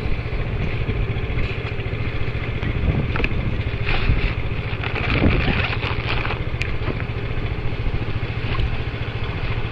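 Motorbike engine running steadily, with a low, fast-pulsing engine note.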